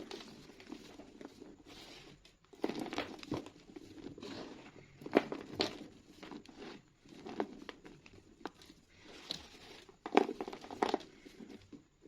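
Reformed school chalk being crushed and crumbled, giving a series of irregular dry crunches with softer crumbling between them. The loudest crunches fall about five seconds in and again near ten seconds.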